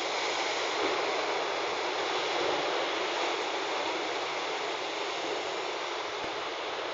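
Big ocean waves breaking and washing: a steady rushing roar of surf.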